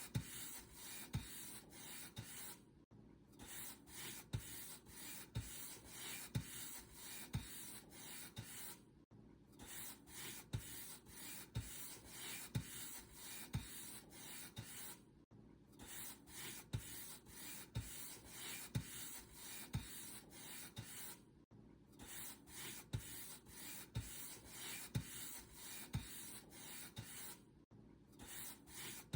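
Paint brush bristles stroking back and forth across a surface, a soft rubbing hiss in quick strokes about two a second, with a brief pause about every six seconds.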